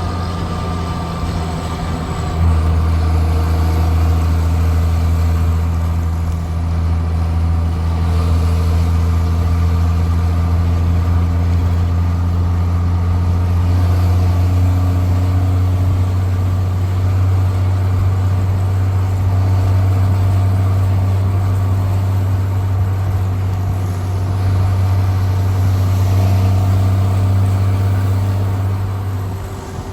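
Straight-piped Cummins C8.3 diesel engine in a 1995 Carpenter school bus running under load: it gets louder about two seconds in, then holds a steady, deep drone, easing off briefly near the end.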